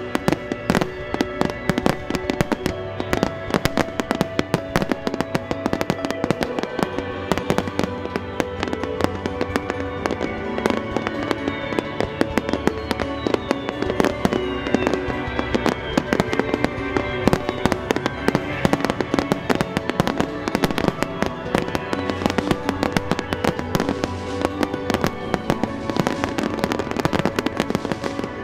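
Dense, continuous barrage of aerial firework shells bursting, many cracks and bangs a second, with music playing underneath.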